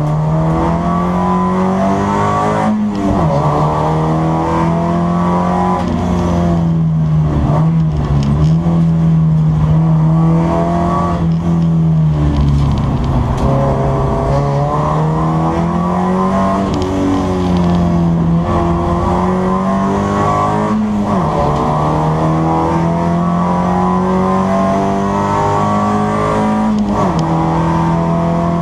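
BMW 318 race car's four-cylinder engine, heard from inside the stripped cabin as it is driven hard on track. Its pitch climbs and falls over and over, with several abrupt breaks at the gear changes.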